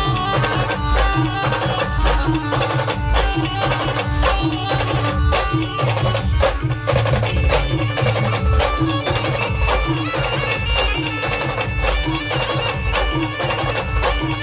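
Folk band music: a fast, even drum beat under a repeating melody line.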